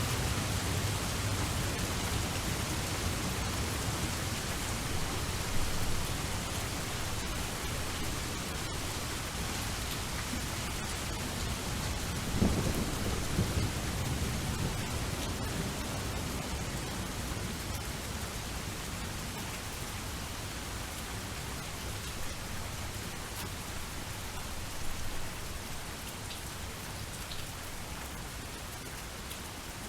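Steady rain falling with low rolling thunder, the rumble slowly fading; a louder peal of thunder about twelve seconds in and a smaller one near twenty-five seconds.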